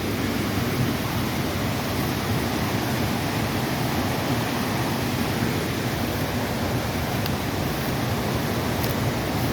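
Steady rush of a flooded creek in full flow after heavy rain.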